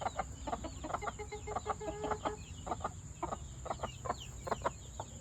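A flock of chickens clucking: many short clucks in quick succession, with one longer drawn-out hen call about two seconds in.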